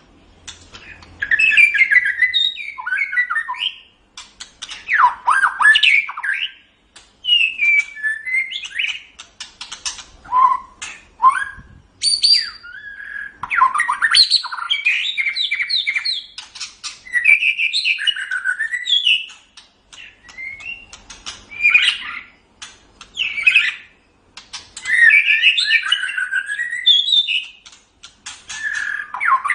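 White-rumped shama (murai batu) singing: varied whistled phrases and fast chattering notes that glide up and down, one phrase after another with short pauses between them.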